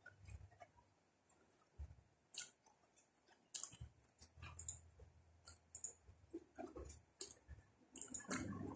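Faint mouth sounds of eating soft cooked banana: scattered wet clicks and lip smacks while chewing.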